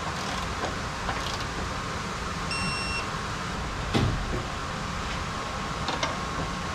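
Steady workshop background hum, with a short electronic beep lasting about half a second about two and a half seconds in, then a single sharp knock about a second later and a lighter click near the end.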